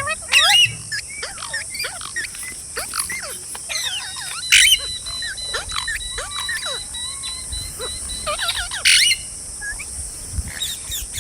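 Green parrots chirping and chattering in quick, rising and falling calls, with three loud shrieks: one just after the start, one in the middle and one near the end.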